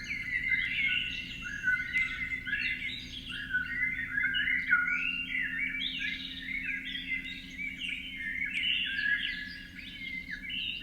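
A flock of small birds chirping continuously, many short overlapping calls at once, over a faint steady low hum.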